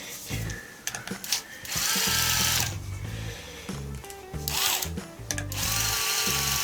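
Electric power driver running in two bursts, about two seconds in and again near the end, with a few shorter pulses between, backing out screws during engine teardown.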